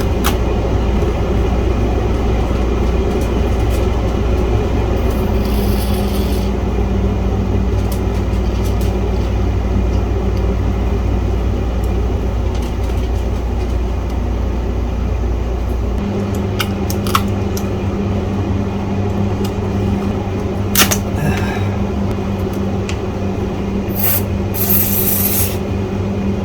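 Steady machine rumble with a low hum, its deepest part dropping away about two thirds of the way through, with a few sharp clicks of handling and two short hisses, one early and one near the end.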